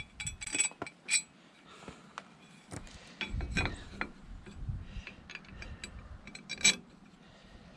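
Pieces of steel angle clinking and knocking against metal as they are handled and set in place. There are several sharp ringing clinks, a cluster about a second in and the loudest near the end, with duller scraping and handling knocks between them.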